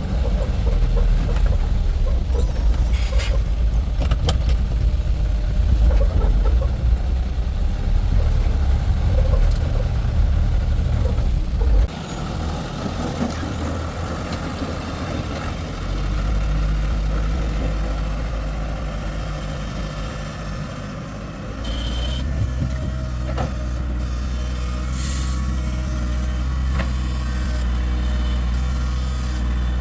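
Heavy vehicle engine running with a deep steady rumble. It drops off suddenly about twelve seconds in and comes back up a few seconds later.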